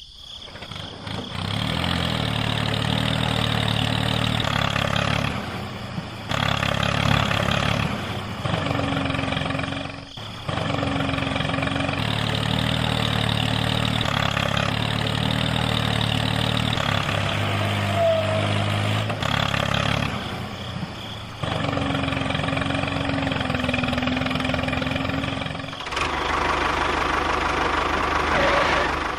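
Engine running steadily, with abrupt breaks and changes in its sound every few seconds.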